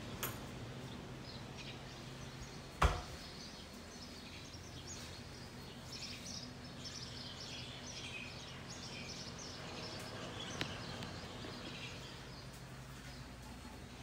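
Birds chirping faintly over a low steady hum, with a single thump about three seconds in.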